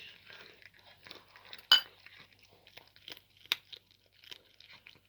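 A cat chewing and crunching a cooked chicken neck, bones cracking in irregular sharp clicks, the loudest about a second and a half in.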